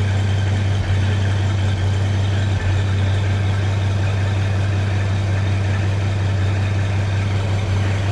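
Diesel engine idling steadily, freshly started after glow-plug preheating, with a strong even low hum.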